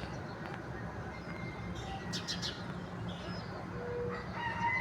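Birds calling, with a quick run of short high chirps about two seconds in and a faint held call near the end, over a steady low background noise.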